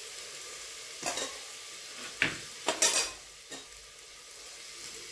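Chopped vegetables sizzling faintly in ghee in an aluminium pressure cooker, with a handful of sharp metal clinks between one and four seconds in as the ladle knocks against the pot.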